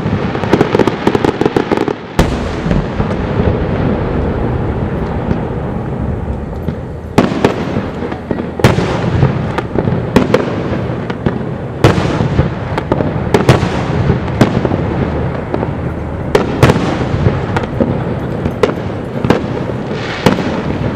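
Fireworks finale barrage: a dense crackling in the first two seconds, then sharp bangs of bursting shells every second or two, each trailing off, over a continuous rumble of overlapping explosions.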